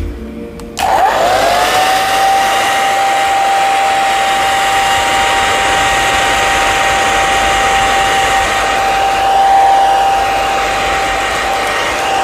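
Hair dryer switched on a little under a second in: its motor whine rises quickly and then holds a steady tone over a loud rush of blown air.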